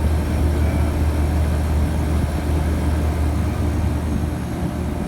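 Condenser fan motor of a True prep-table refrigerator running with a steady low hum.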